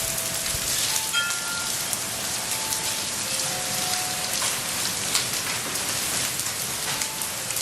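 Hail and heavy rain falling: a steady hiss of rain with many small sharp ticks of hailstones striking the ground and surfaces.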